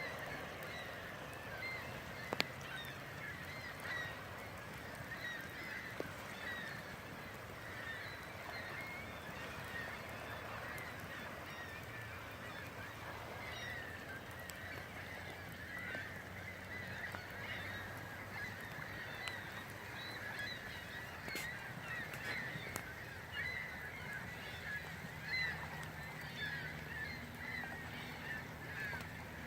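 A dense chorus of many short, high animal calls overlapping continuously, with a faint low hum underneath.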